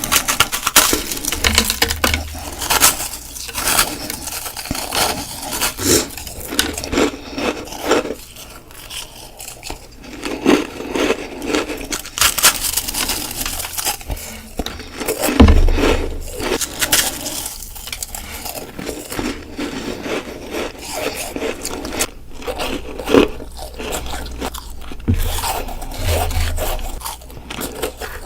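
Close-miked bites and crunching of ice: many crisp crunches in quick runs with short pauses between them, and a few dull low thumps mixed in.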